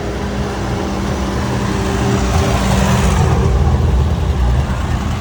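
Tractor engine running as it passes close by, growing louder to a peak about halfway through, then easing a little.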